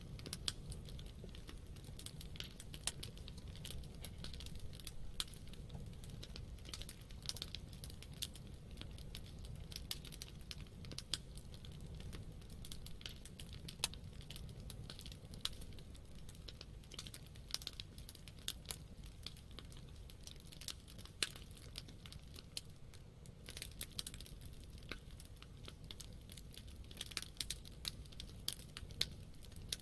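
Wood campfire crackling, with many small irregular pops and snaps over a low steady rumble.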